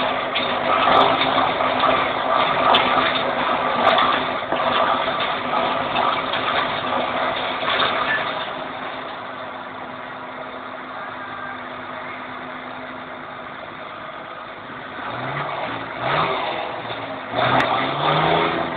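New Holland TM190 tractor's six-cylinder turbo-diesel engine running loud. It eases off to a quieter level about halfway through, then revs up in a few short rising pulls near the end.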